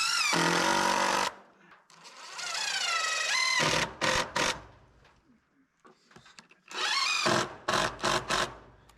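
Cordless power drill driving screws: several trigger pulls, the motor's pitch rising and falling with each run, then a few short quick bursts near the end.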